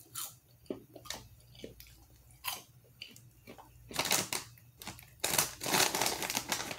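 A person chewing and crunching kettle corn, with soft scattered crunches at first. From about four seconds in it gets louder and denser, with the rustle of the plastic snack bag as a hand reaches in for more.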